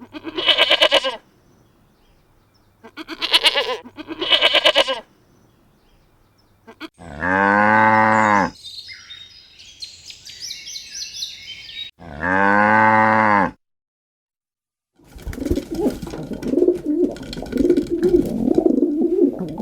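Cow mooing twice, two long low calls about five seconds apart, among other farm-animal calls: short higher calls in the first few seconds, high chirping between the moos, and a busy run of lower calls near the end.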